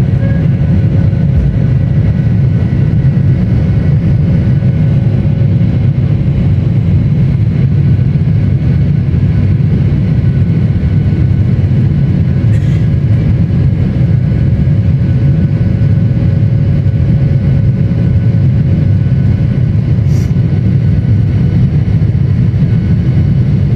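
SpiceJet Boeing 737-800's CFM56-7B jet engines running at takeoff power: a loud, steady deep rumble with a few faint steady whining tones above it.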